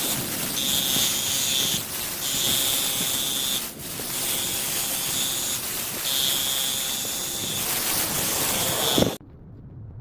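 High-pressure water spray hissing against a car's body, with a steady whistling tone that drops out briefly every second or two as the spray is interrupted or moved, then stops abruptly near the end.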